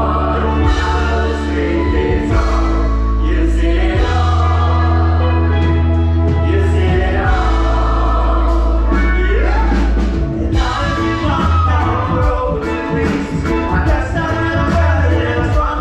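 Live band music with several voices singing together, over a heavy bass line and a steady beat.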